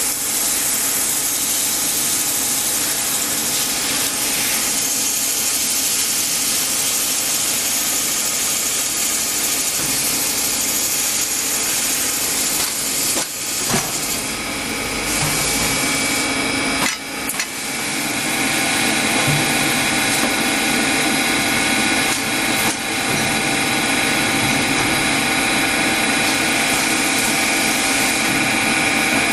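A machine tool running steadily during machining, with several steady tones over a dense mechanical noise. About halfway through, a few short knocks and brief dips break the noise, and then a steady high whine joins and holds to the end.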